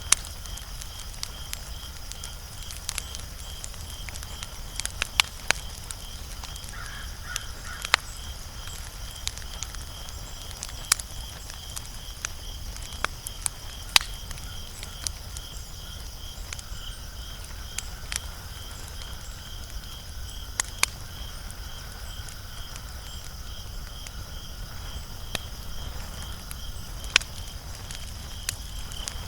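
Wood fire crackling, with sharp irregular pops and snaps over a low steady rumble. A steady, high pulsing chirp runs in the background throughout.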